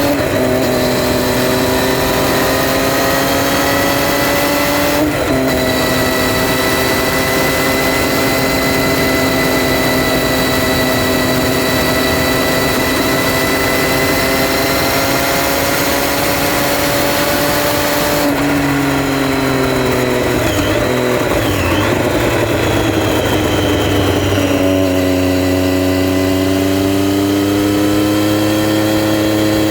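Triumph Street Triple R's 675 cc inline-three engine running under way, with a quick gear change about five seconds in and a long steady pull after it. Later the engine note drops and wavers as the bike slows, then settles into a steady lower-pitched run near the end, with wind noise throughout.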